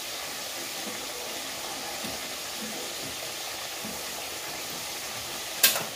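Oil sizzling steadily around sweet potato chunks frying in caramelized sugar in a wok, with soft scrapes of a wooden spatula stirring them. A single sharp clack sounds near the end.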